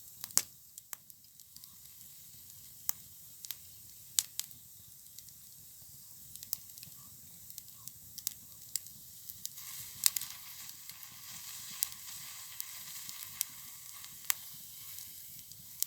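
Campfire burning with a steady crackle and sharp pops. About two-thirds of the way in, a faint higher hiss begins: the object heating in the fire has started to hiss.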